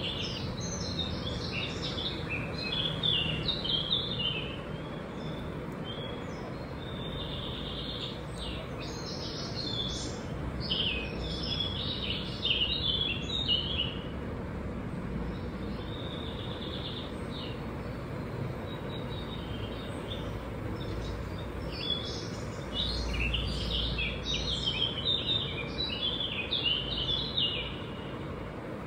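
Songbird chirping and singing in quick twittering phrases, in three bouts, over steady background noise.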